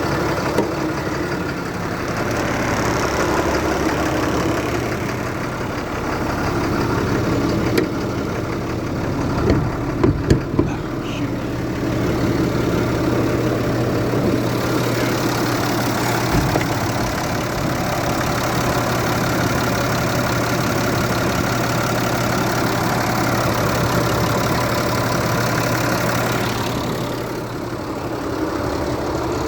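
Caterpillar 3126 inline-six diesel idling steadily shortly after a cold start, at low idle rather than high idle. A few loud thumps come about ten seconds in.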